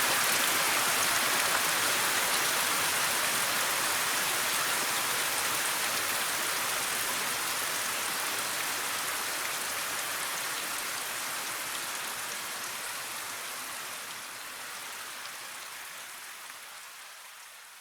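Steady rain falling, an even hiss of many drops, fading out gradually and smoothly toward the end.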